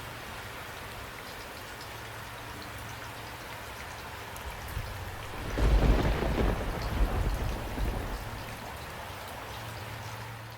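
Steady rainfall with a roll of thunder a little past halfway, rumbling loudest for a moment and then fading away over a few seconds.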